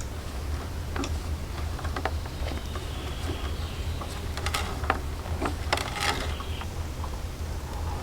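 A series of irregular light knocks and clicks, a few louder ones around the middle, over a steady low rumble.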